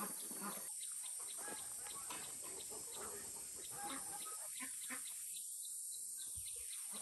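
Domestic chickens clucking in short, scattered calls, with a steady high hiss behind them.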